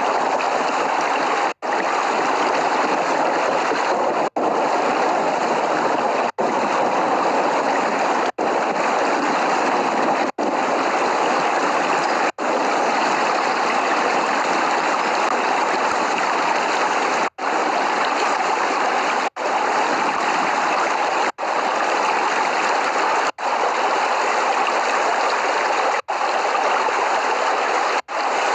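Steady, even hiss of heavy rain, broken by very brief gaps of silence about every two seconds; no thunder.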